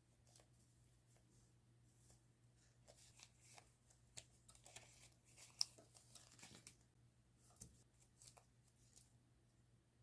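Faint rustling, crinkling and light tapping of paper and sticker packs being handled, with a sharper click about five and a half seconds in.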